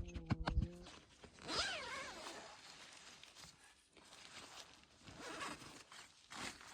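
A zipper pulled in a quick run of clicks in the first second, typical of a tent or camping-bag zipper. It is followed by a brief wavering whine and faint rustling.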